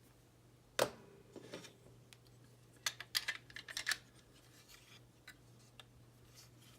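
Small clicks and taps from model-kit parts and a screwdriver being handled: one sharp click about a second in, then a quick run of clicks around the middle, over a faint steady hum.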